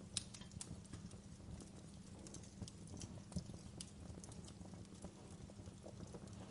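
Wood fire burning in a fireplace: a low, steady rumble of flames with irregular sharp crackles and pops, the loudest pop just after the start.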